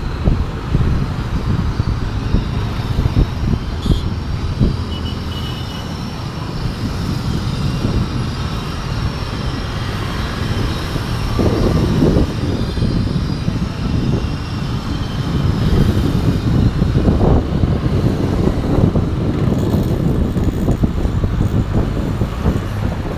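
Passenger train crossing a railway bridge: a steady, heavy rumble of wheels on the track with continual clatter, swelling louder around two-thirds of the way in.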